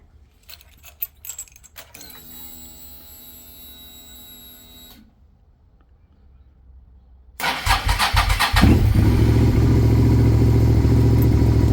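A few clicks, then a steady whine for about three seconds, like a fuel pump priming. About seven seconds in, the starter cranks the 2005 Suzuki SV650's 645cc V-twin for about a second before it catches and runs at a loud, steady idle. This is a successful cold start on a NOCO NLP14 lithium battery chilled to about 20 °F.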